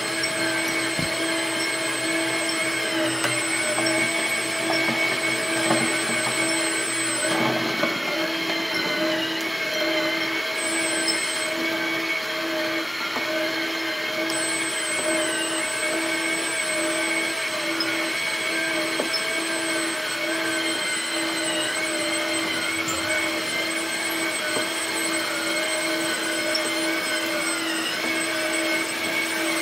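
1/14 Tamiya Mack Granite RC dump truck's electric drive motor and gearbox whining steadily. The pitch wavers and dips briefly every few seconds as the throttle changes.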